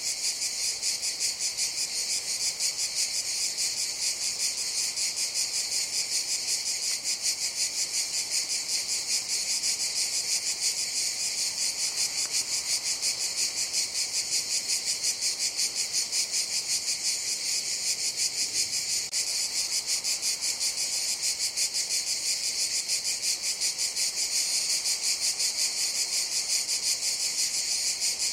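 Cicadas calling in a steady chorus: a dense, high-pitched buzz with a rapid, even pulsing flutter.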